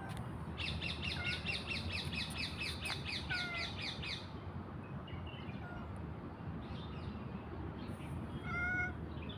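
Birds calling over steady background noise: a rapid high trill of about five notes a second for the first four seconds, then scattered short chirps. Near the end comes a short mewing call from a cat.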